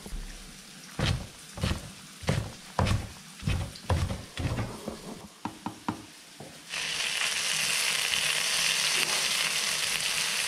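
A series of irregular knocks and clatters in the kitchen. About two-thirds of the way in, food goes into hot oil and starts sizzling loudly and steadily as it fries.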